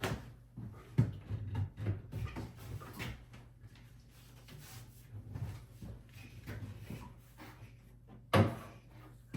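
Wooden vanity cabinet being shifted and bumped into place for a dry fit: a string of knocks and scrapes, with one loud thump about eight seconds in.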